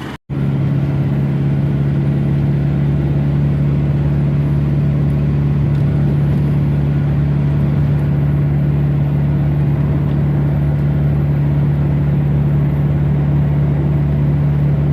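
Car driving at a steady speed: an even, loud low engine drone with road noise, unchanging throughout.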